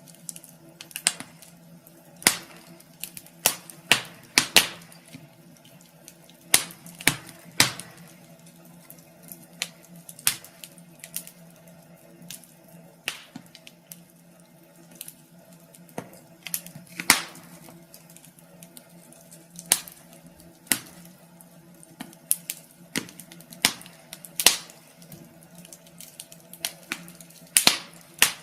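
Wood fire crackling in a fireplace: irregular sharp pops and snaps, a few loud ones among many small ones, over a faint steady low hum.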